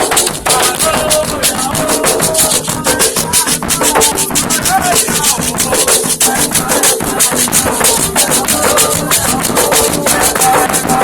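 Afro-Brazilian Candomblé percussion playing a toque for Xangô: hand drums beating a fast, steady rhythm with rattles shaking over it.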